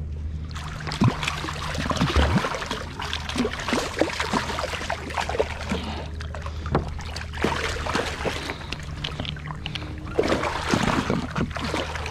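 Irregular water splashing and knocks against a kayak as a striped bass is brought to the boat and landed, over a steady low hum.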